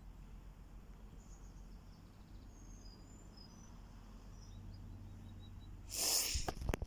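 Low steady hum of a Class 185 diesel multiple unit idling at the platform, with faint high bird chirps. Near the end come a short rushing noise and a few sharp clicks.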